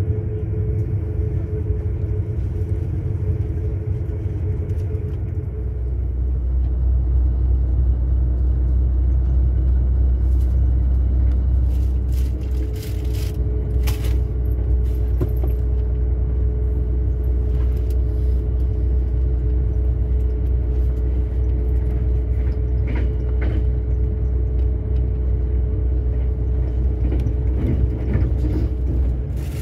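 Passenger train running, heard from inside the carriage: a steady low rumble with a constant hum, getting louder about six seconds in, with a few scattered clicks and knocks.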